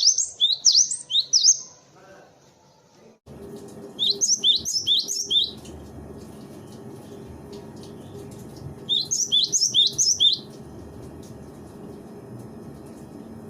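Cinereous tit (gelatik batu) calling in three bursts of rapid, high chirps, each lasting a second or so, with pauses between. A steady low hum sits behind the calls from about three seconds in.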